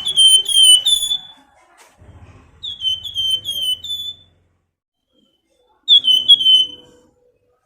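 A Flamboyan songbird giving its 'nyiul' whistled call. There are three bursts of short, high, down-slurred whistles, three to five notes each, a couple of seconds apart.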